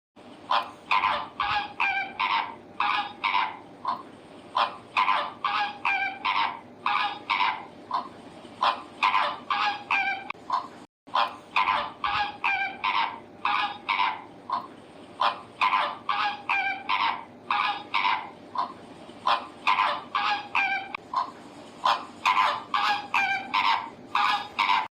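Birds calling over and over, short pitched calls about two or three a second, with a brief break about eleven seconds in.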